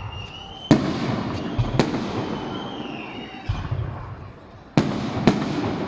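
Fireworks going off: whistling shells and four sharp cracks, about a second and three seconds apart, with lower booms between them.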